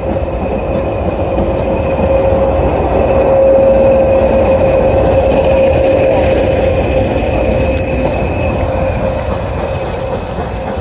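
Passenger train rolling slowly past, its wheels rumbling on the rails with a steady high squeal from the wheel flanges on the curve.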